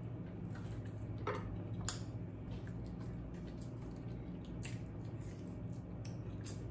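Close-miked eating sounds: wet mouth clicks and lip smacks while chewing pork chop meat pulled off the bone by hand, a few sharp ones standing out, the sharpest about two seconds in. A steady low hum lies underneath.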